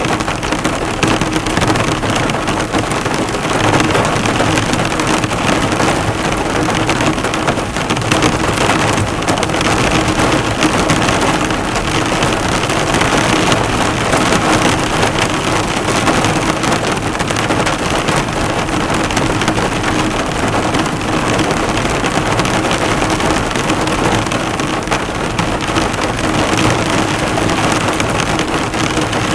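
Heavy rain falling steadily on a car, the drops bouncing off the bonnet in a dense, even patter.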